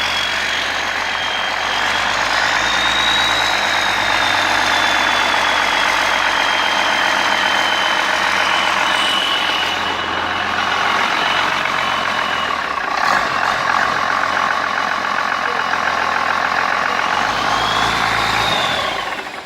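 Case 6TA830 (Cummins 8.3-litre inline-six turbodiesel) engine running steadily, with a high turbo whine that drifts slowly in pitch. The sound cuts off at the very end.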